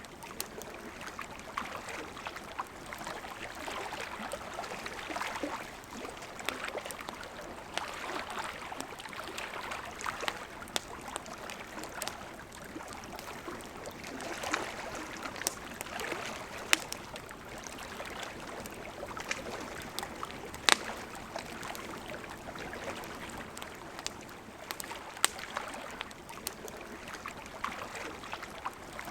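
A river flowing steadily, with a wood campfire crackling over it in irregular sharp pops, the loudest pop about two-thirds of the way through.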